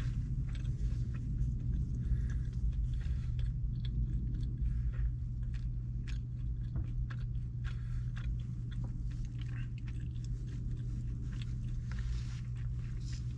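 A person chewing mouthfuls of orange chicken and noodles, with small irregular clicks of a plastic fork picking at food in a plastic takeout bowl, over a steady low hum.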